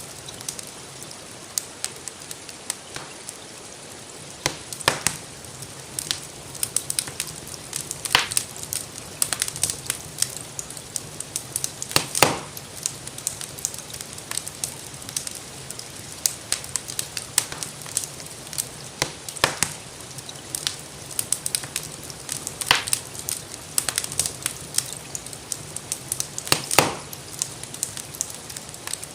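Wood fire crackling and popping, with irregular sharp snaps, a few louder pops, over a steady hiss of gentle rain.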